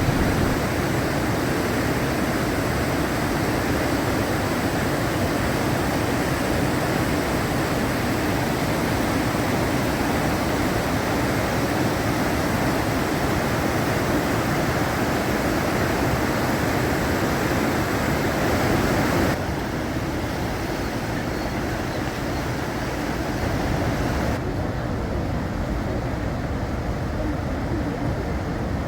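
Steady roar of Niagara Falls' falling water. The level drops abruptly twice in the last third.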